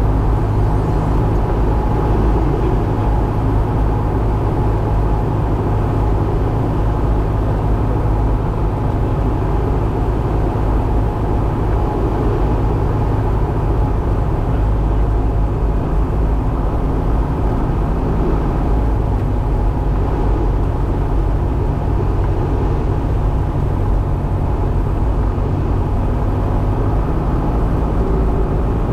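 Cessna 172's piston engine and propeller running at a steady drone in flight, with a slight drop in the low tones near the end.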